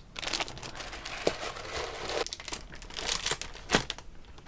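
Packaging being handled, crinkling and rustling continuously with many sharp crackles.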